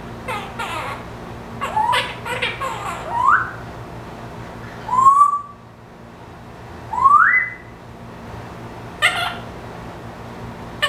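Pet parrot calling: a quick run of short squawky chirps, then two clear whistles about two seconds apart, the second sliding upward, and a short harsh squawk near the end.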